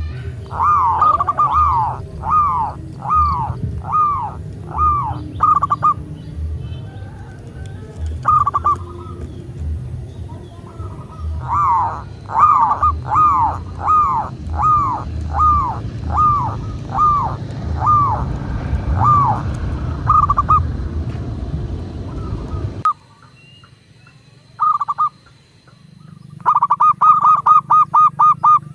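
Zebra dove cooing: runs of short, arched notes repeated about two to three a second, broken by pauses. Near the end, after the low background rumble cuts off suddenly, comes a fast run of tightly packed notes.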